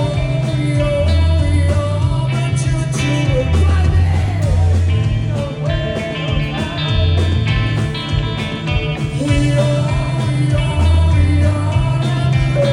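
Rock band playing live: electric guitars, a bass line moving between low notes, drums and a singing voice.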